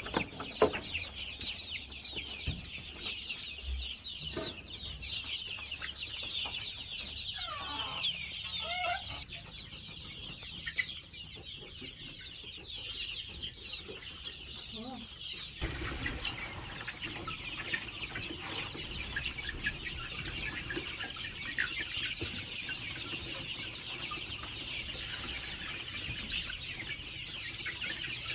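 A crowded flock of farm chickens making a dense, unbroken chorus of high cheeping, with a few lower clucks about eight seconds in.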